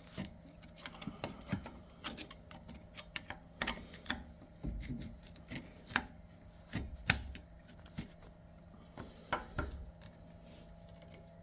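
Irregular metal clicks, knocks and scrapes of a pry tool working the old brake pads back against the rotor in a front brake caliper, with a few duller thumps.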